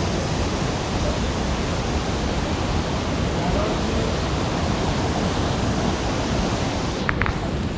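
Steady, loud rushing noise of wind or water, with two brief high tones close together near the end.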